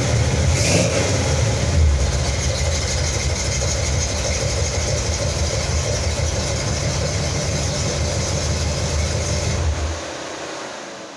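Hot, tired Buick 350 V8 breathing through new headers and exhaust, revved once near the start, then idling steadily. About ten seconds in it is switched off and the sound dies away.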